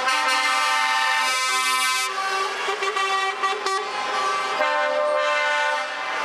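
Truck air horns sounding in long, steady overlapping tones, the mix of pitches changing a few times as horns start and stop.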